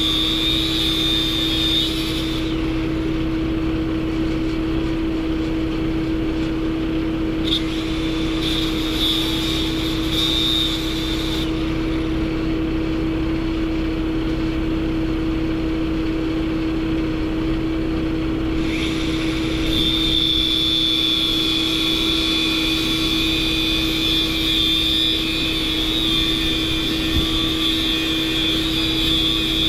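A running machine with a steady drone: a constant hum, plus a high whistle that drops out for long stretches in the middle.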